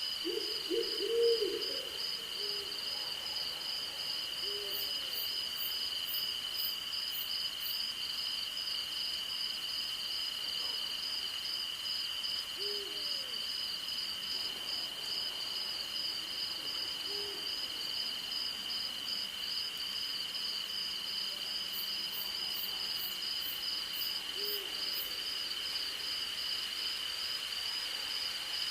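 An owl hooting: a quick run of several hoots about a second in, then single hoots every few seconds, over a steady chorus of crickets and insects, one of them pulsing rapidly. Two short runs of fast, very high ticking come in, near the start and again past the middle.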